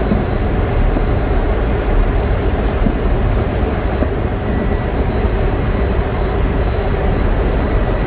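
Steady, loud drone of running generator engines, with a few faint high whines held steady above it.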